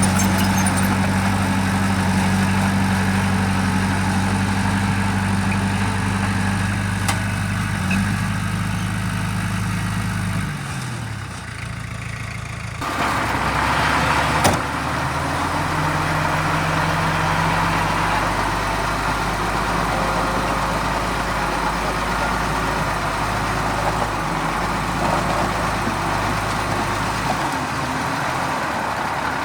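Heavy diesel engine of earthmoving machinery running steadily. About ten seconds in its pitch drops as it slows, and a short hiss follows. The engine then runs on steadily.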